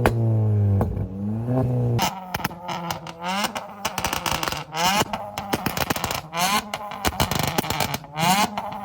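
Modified car engines revved with loud aftermarket exhausts: a deep engine note swells and falls for about two seconds, then gives way to quick repeated rev blips, each a short rising whine, mixed with many sharp cracking pops.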